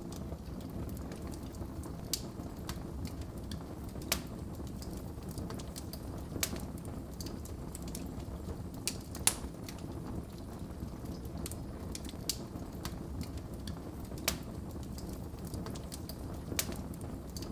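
Wood fire burning in a fireplace: a steady low rumble with irregular sharp crackles and pops, a louder pop every couple of seconds.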